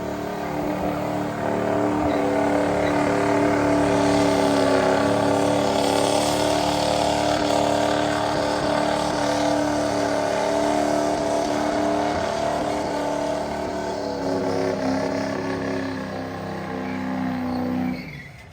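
A truck engine held at high revs, a steady loud drone that gets louder about two seconds in, eases back slightly later, and cuts off abruptly near the end.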